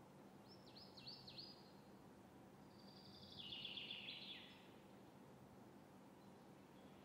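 Near silence with faint bird calls: four quick downward chirps about half a second to a second and a half in, then a longer buzzy trilling call around three to four seconds in, over a low steady room hum.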